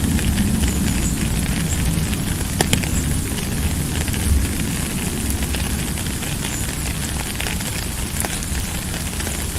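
Steady rain: a continuous hiss over a low rumble, with scattered sharp ticks.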